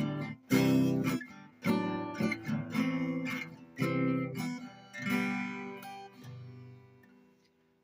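Acoustic guitar strummed chord by chord, about five strums roughly a second apart. The last chord rings out and fades away near the end.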